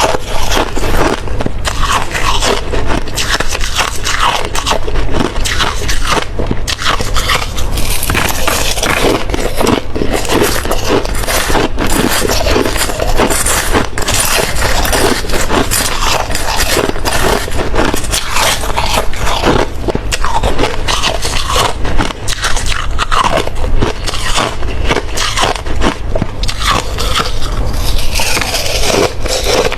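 Hard ice being bitten and chewed close to the microphone: continuous loud, irregular crunching and cracking.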